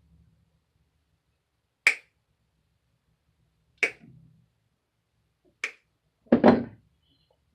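Three sharp clicks about two seconds apart, then a louder, longer clatter near the end, from hand work on the bird cage's parts.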